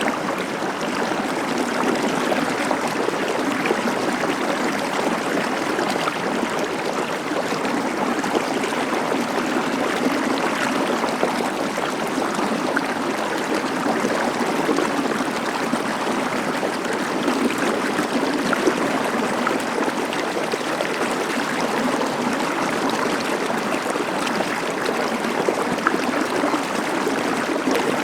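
Stream of water flowing steadily, an even, unbroken rush.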